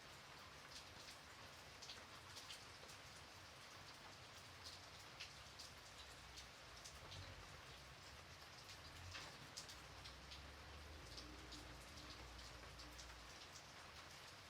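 Gentle light rain falling steadily, with many separate drops ticking sharply on a surface.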